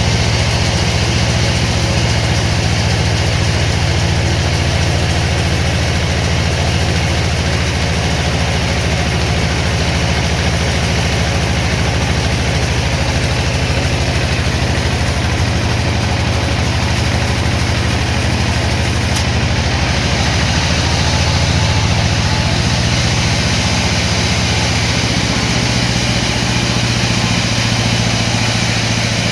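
Sawmill machinery running steadily, an engine-driven drone with a constant noisy rush above it; the engine note shifts slightly lower near the end.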